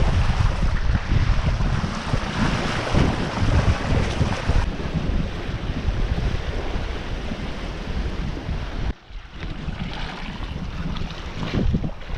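Wind buffeting the microphone over the rush of waves washing past a sailboat under way, the level dropping sharply for a moment about nine seconds in.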